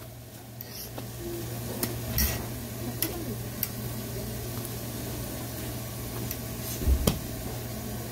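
Hotteok sizzling as they fry in oil on a flat griddle, over a low steady hum, with a few sharp clicks and knocks, the loudest about seven seconds in.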